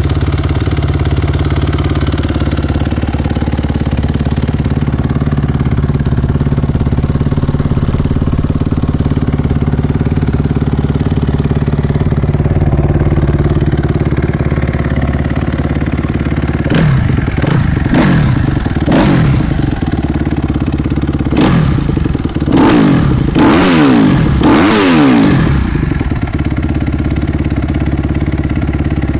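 Kawasaki KX250F single-cylinder four-stroke motocross engine idling while it warms up from a cold start. Past the middle it is given a series of quick throttle blips, each revving up and dropping back, then it settles to idle again.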